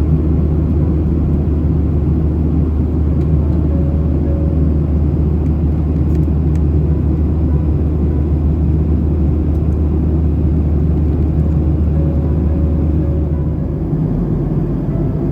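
Steady low rumble of a Boeing 737-800's engines and airflow heard from inside the passenger cabin. The deepest part of the rumble drops off near the end.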